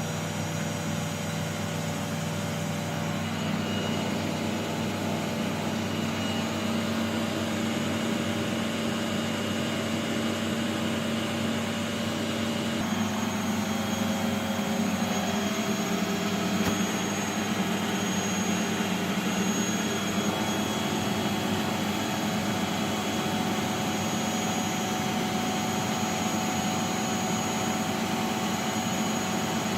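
Washing machine running with a steady motor whine and hum. The tones shift upward in pitch about a third of the way in and again about two thirds in, as the drum speed changes.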